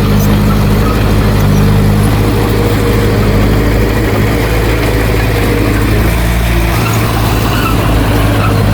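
Heavy diesel engine of earthmoving machinery running steadily, its note shifting slightly a couple of times.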